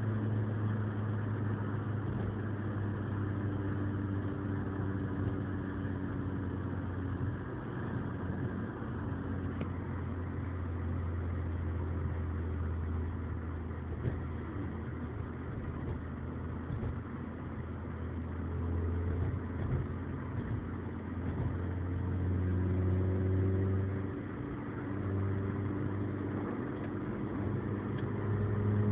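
Suzuki Swift Sport's four-cylinder engine through a BBK full aftermarket exhaust system, heard from inside the cabin while driving. The low drone's pitch shifts with engine speed and rises near the end as the car accelerates.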